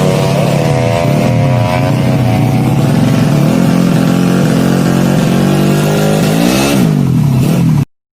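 A 200cc drag-built Yamaha Jupiter's single-cylinder four-stroke engine revving, its pitch dropping and climbing again in repeated throttle blips, with one quick blip near the end before the sound cuts off abruptly.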